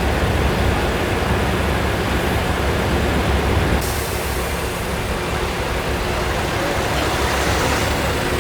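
Diesel engines of custom Peterbilt semi trucks running as they roll past in a parade, a deep steady rumble. A hiss comes in sharply about four seconds in.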